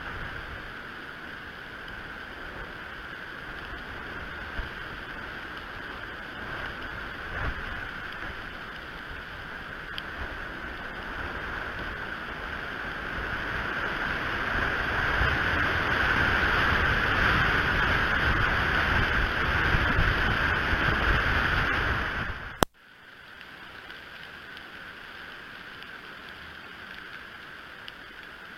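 Wind rushing over a nest camera's outdoor microphone, building to its loudest about two thirds of the way through. A sharp click then cuts it off, leaving a quieter steady rush.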